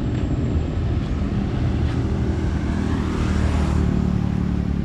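Motorcycle engine running steadily while riding, with wind and road noise; a rushing noise swells and fades about three to four seconds in.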